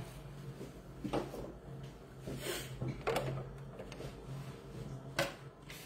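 Soft eating sounds from chewing French fries, with about four short clicks or knocks standing out over a low steady hum.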